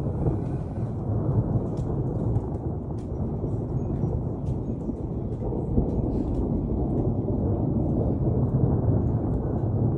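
Thunder rumbling low and continuously, swelling louder near the end, with faint scattered ticks of rain.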